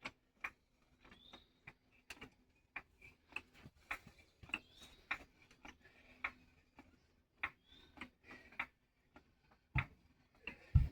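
Irregular sharp clicks and taps, one to three a second, with two louder knocks near the end.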